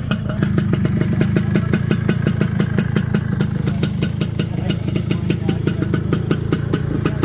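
Vespa 200 scooter's two-stroke single-cylinder engine idling with a steady, rapid, even putter.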